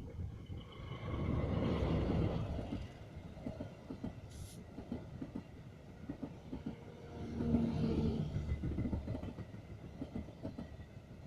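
A train passing: a rumble of wheels on the rails with a dense, irregular clatter, swelling twice as it goes by.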